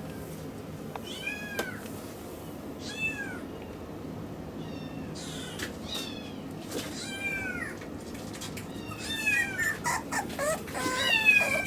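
Miniature schnauzer puppy whining in short, high-pitched cries, spaced a second or more apart at first, then coming quickly and louder near the end.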